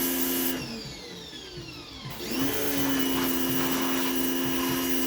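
Pressure washer running with its water spray hissing. About half a second in the trigger is let go and the motor winds down with a falling whine. About two seconds in it starts again with a rising whine and runs steadily.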